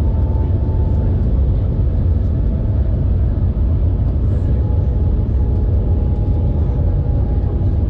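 Shanghai Maglev train travelling, heard from inside the passenger cabin: a steady, loud, low rumble with a faint steady whine above it.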